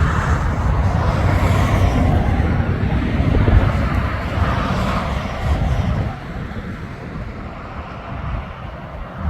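A heavy truck passing close by: a loud, low rumble of engine and tyres that drops away sharply about six seconds in.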